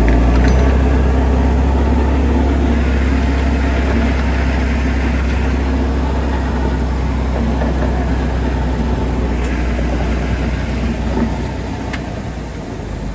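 Heavy diesel engine of construction machinery running steadily with a deep low rumble, becoming quieter near the end.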